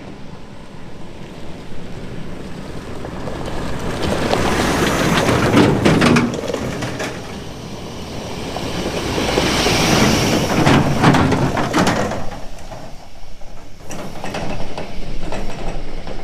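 Wind gusting across the microphone outdoors: a rushing noise with low rumbling buffeting that swells twice to loud gusts, about five and ten seconds in, and eases between them.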